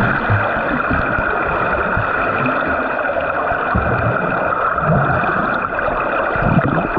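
Pool water rushing and sloshing around a swimmer, a steady wash with irregular low splashes and surges.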